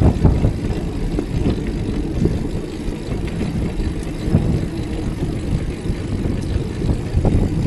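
Wind buffeting the microphone of a camera carried on a moving bicycle: a loud, uneven low rumble.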